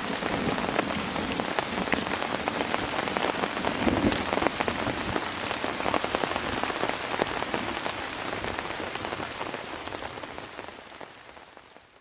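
Heavy rain falling on a camping tarp overhead, a dense hiss with many individual drops ticking on it. The sound fades away over the last couple of seconds.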